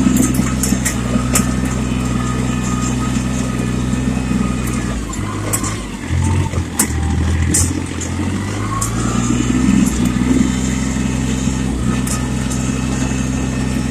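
Small Yanmar diesel tractor engine running steadily while pulling a drag through slush in high gear. About five seconds in the engine note dips and wavers, then comes back up to its steady pitch a few seconds later, with light rattles and clicks throughout.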